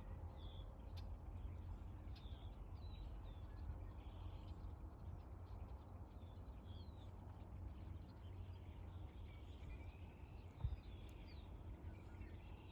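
Small birds chirping faintly in short, scattered calls over a steady low rumble. A single thump about ten and a half seconds in.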